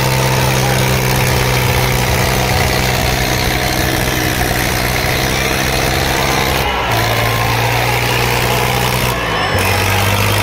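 Diesel tractor engine running at a steady speed, its note dropping in two steps, about two-thirds of the way through and again near the end.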